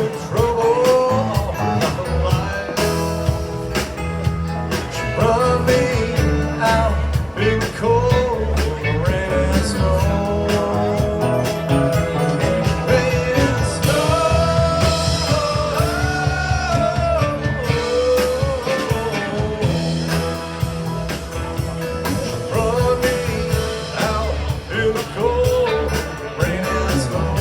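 Rock band playing a song: a sung lead vocal over drums, bass and guitar.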